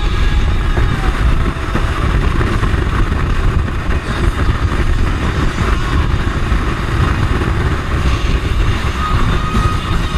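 A boat running at speed: a steady engine drone mixed with the rush of water and wind.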